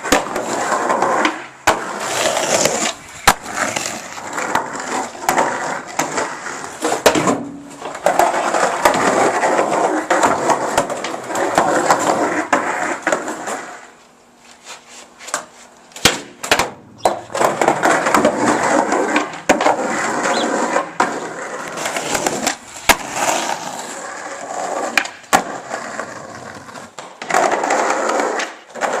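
Skateboard wheels rolling over pavement, broken by repeated sharp clacks of the board hitting the ground. The rolling drops away briefly about halfway through.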